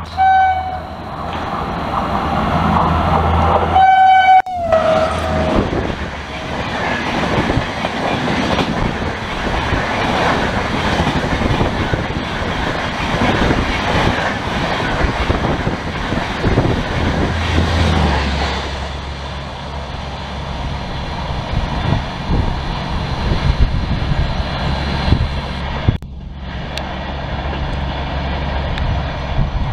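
Horn of a WAP-5 electric locomotive at high speed: a short blast, then a second blast about four seconds in that drops in pitch as the locomotive passes. After it comes the rush and clatter of the Shatabdi Express coaches going by.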